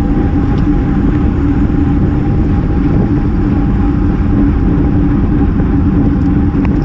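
Steady wind rush on an action camera's microphone from a road bike riding in a racing group, with tyre noise from the road and a steady low hum.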